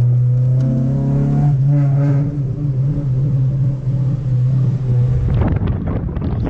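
Honda Civic with a straight-piped exhaust driving, its engine giving a steady low drone. About five seconds in the exhaust breaks into a run of sharp pops and crackles.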